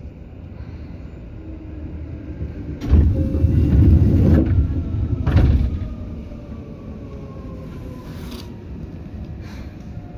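Seibu 2000 series electric commuter train running, heard from inside the car: a steady low rumble that swells into a loud rush of rumble and clatter about three seconds in, lasting about three seconds. Afterwards a faint whine falls slowly in pitch.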